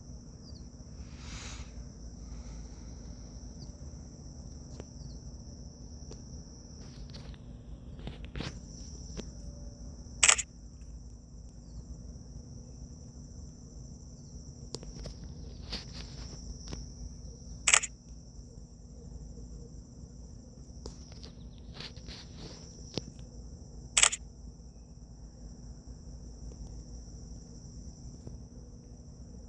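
Steady high-pitched chirring of crickets, with three sharp clicks spaced about seven seconds apart standing out as the loudest sounds.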